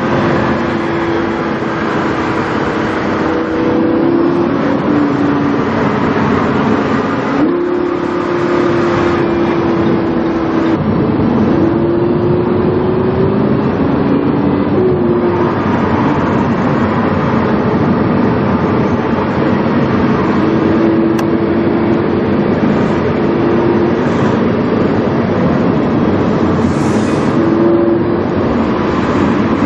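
Lamborghini Huracán's 5.2-litre V10 breathing through a PowerCraft aftermarket exhaust, heard from inside the car while driving. The engine note mostly holds steady, with a few small steps up and down in pitch as the revs change, over road and wind noise.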